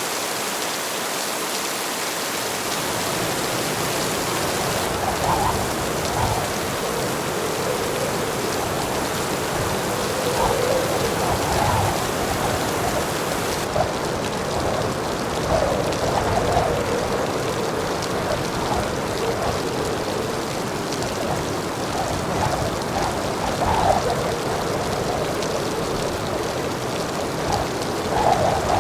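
Heavy rain falling steadily, a constant hiss of water with small irregular splashes.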